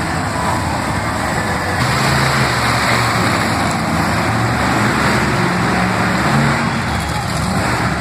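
Monster truck engine running loud under a dense rushing noise. Its low note strengthens about two seconds in, holds with small shifts in pitch, and eases near the end.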